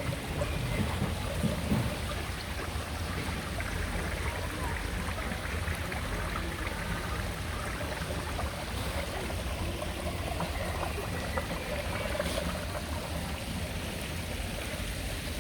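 Water running steadily in a small stream.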